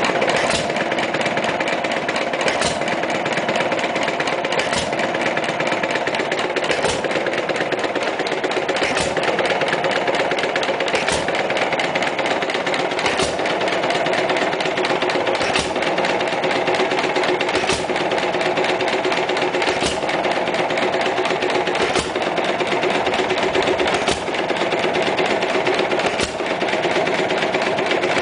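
1928 Macleod's 1-3/4 hp hit-and-miss stationary engine made by Nelson Bros., running at about 500 RPM through its original muffler. It fires with a sharp bang about once every two seconds and clatters steadily as it coasts between firings.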